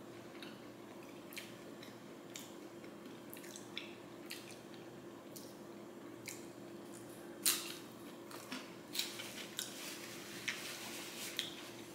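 Close-up chewing of a crispy tempura-battered shrimp: faint, scattered crunches and mouth clicks, with a louder crunch about seven and a half seconds in. A paper napkin rustles near the end, and a steady low hum runs underneath.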